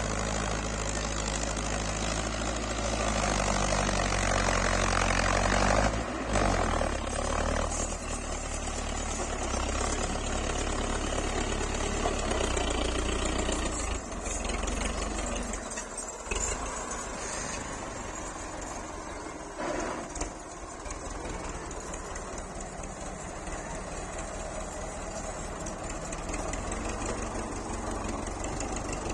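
Belarus MTZ-50 tractor's four-cylinder diesel engine running. It grows louder up to about six seconds in, where its pitch shifts, then turns quieter and rougher after about sixteen seconds.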